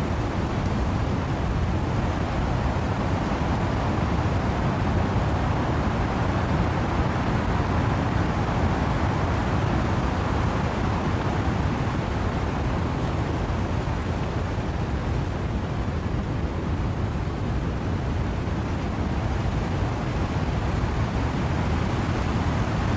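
Steady wind-driven rain with wind rushing through trees, a continuous dense noise heaviest in the low end.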